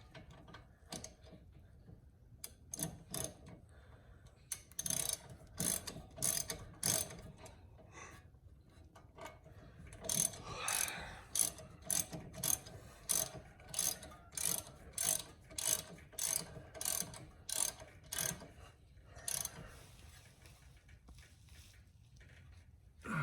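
Hand ratchet wrench clicking in repeated short strokes as a nut is worked on the car's suspension. The clicks come in two long runs of about two a second.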